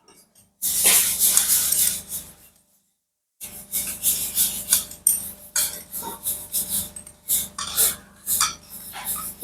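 Metal tools and engine parts clinking, clattering and scraping as a car engine is stripped down: a dense stretch of clatter, a second of dead silence about three seconds in, then many separate sharp clinks.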